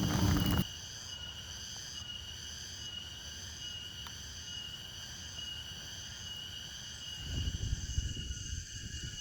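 Steady, high-pitched chorus of insects such as crickets. A low rumbling noise stops just after the start and comes back about seven seconds in.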